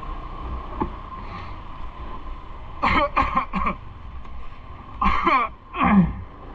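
A person clearing their throat in two short rough bouts, the first about three seconds in and the second about five seconds in, over steady riding wind and road noise.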